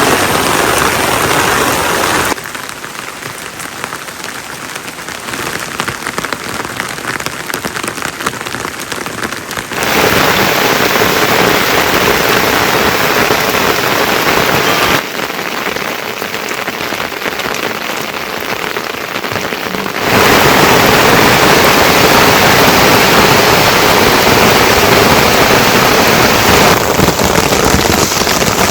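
Heavy rain falling, a dense steady patter. Its loudness drops and jumps abruptly several times.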